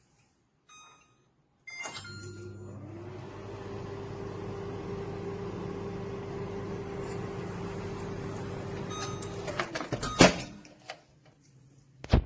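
Microwave oven beeping twice, then running with a steady hum and a high whine that fades partway through. It stops after about eight seconds, followed by sharp clicks and a loud knock near the end.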